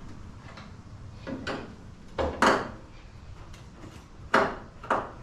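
A handful of sharp knocks and clatters from a GE washer/dryer's sheet-metal panels and parts being handled while the dryer section is taken apart. The loudest comes about two and a half seconds in, another about four and a half seconds in.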